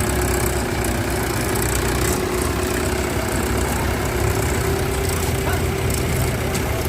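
Mahindra tractor's diesel engine running steadily, with an even low rumble and a constant hum.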